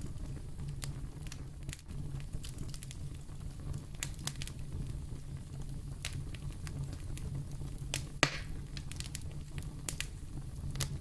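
Wood fire burning in a fireplace: irregular crackles and pops over a steady low rumble, with one louder pop and a short hiss a little past eight seconds in.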